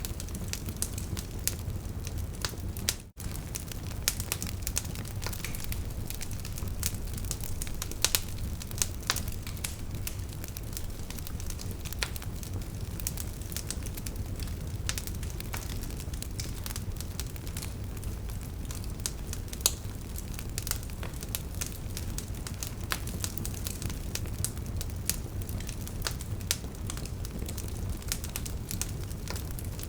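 Wood fire crackling: frequent irregular pops and snaps of burning logs over a steady low rumble of flames, with a momentary gap about three seconds in.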